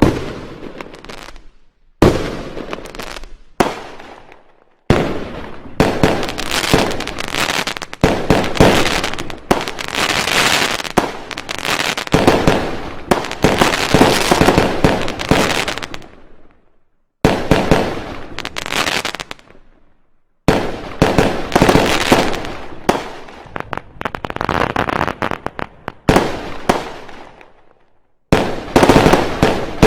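Fireworks going off in volleys of rapid bangs and crackles, each volley a few seconds long and dying away, with short silent gaps between volleys.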